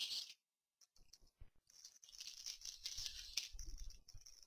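Foil wrapper of a Magic: The Gathering booster pack crinkling and rustling as it is torn open and handled, with small clicks; a short stretch of dead silence comes before it, under a second in.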